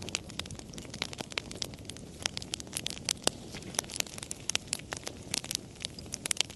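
Campfire crackling: irregular sharp pops and snaps, several a second, over a low steady rush of burning.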